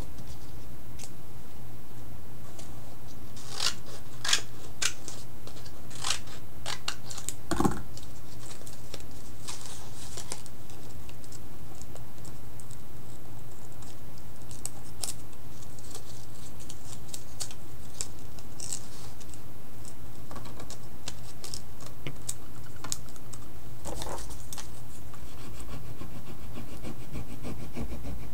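Scattered light clicks, taps and scratches of art supplies being handled and worked on a mixed media painting, clustered in a few short runs, over a steady low hum.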